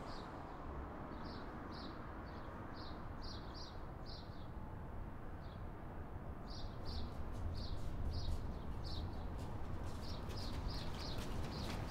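A small bird chirping in short high notes, again and again at uneven intervals, over a steady low street rumble. In the second half, faint clicks of footsteps draw closer.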